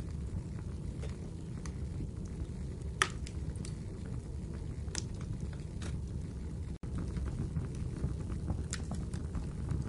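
Firewood burning in a fireplace: a steady low rumble of flame with scattered sharp crackles and pops, the loudest about three seconds in. The sound cuts out for an instant a little past the middle.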